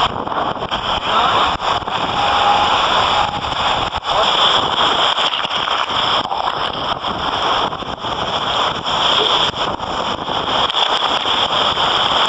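Wind and spray rushing over the microphone aboard a fast-moving sailboat, a steady loud hiss with constant crackling.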